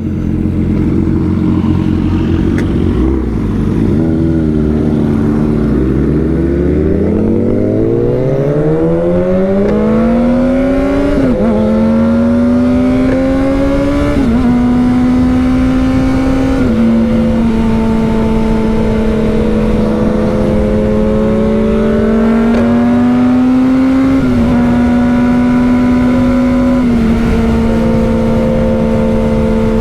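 Motorcycle engine heard from the rider's seat. It slows in the first few seconds, then accelerates hard with a rising engine note. It upshifts through the gears, the pitch dropping at each shift, and settles into a steady cruise.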